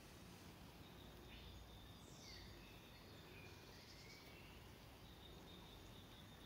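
Faint outdoor ambience: several short bird chirps over a low, steady background hiss.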